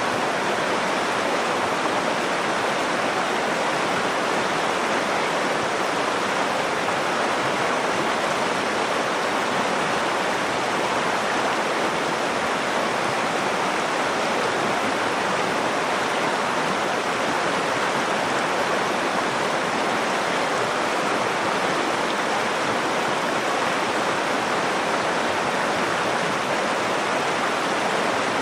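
Nakdong River water flowing, a steady, even rushing sound that does not change.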